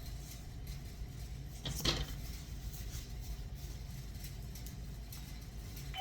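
A steady low hum with one short clatter about two seconds in, a kitchen item knocking against something hard.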